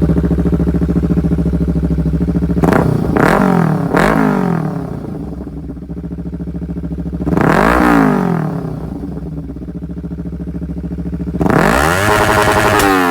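Kawasaki Ninja 300's parallel-twin engine through a TOCE full-system exhaust, running steadily and then blipped: three quick revs about three seconds in, another near eight seconds, and a longer rev near the end, each dropping back down.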